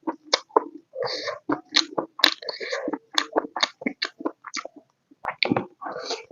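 Close-miked mukbang eating of pork and potato curry with rice: chewing and biting, a quick irregular run of short mouth clicks and smacks with a brief pause about five seconds in.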